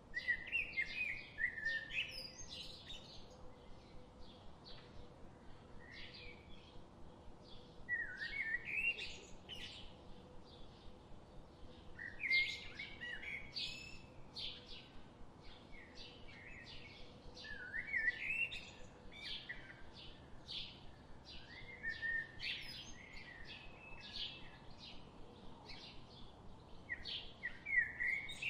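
Songbirds singing: warbling song phrases every four to six seconds, with short chirps between them.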